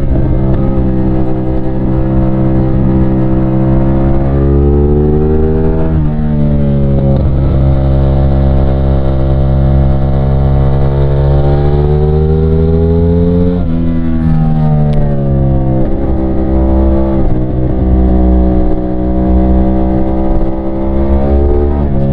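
CFMOTO 450SR's 450cc parallel-twin engine pulling hard through the gears. The engine note climbs steadily, then drops sharply at each upshift, several times.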